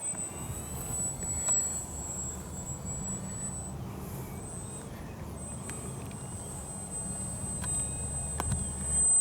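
Wind buffeting the microphone with a low rumble, over the faint, thin whine of a small electric RC plane's motor and propeller flying at a distance.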